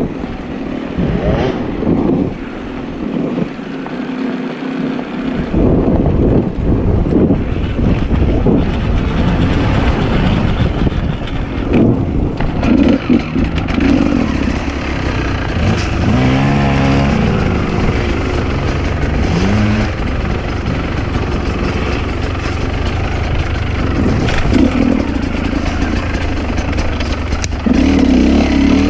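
Enduro dirt bike engine running and revving up and down as it is ridden off-road. It gets louder about five seconds in.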